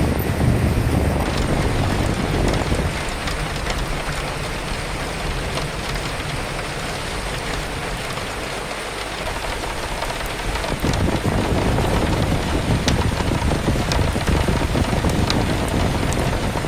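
Steady recorded rain with wind. A low gusty rumble is strong at first, eases off, then swells again about two-thirds of the way through, under the constant hiss and patter of the rain.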